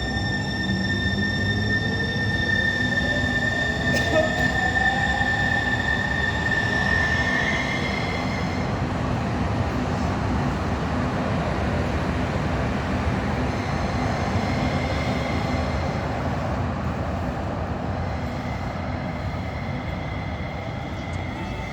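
Sound Transit Link light rail train pulling away from the platform: the electric drive's whine rises in pitch over the first several seconds over a steady high squeal and the rumble of the wheels, and the rolling rumble carries on as the train runs out of the station.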